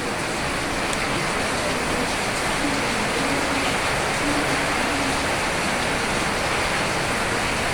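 Steady rain, a dense even hiss with no breaks.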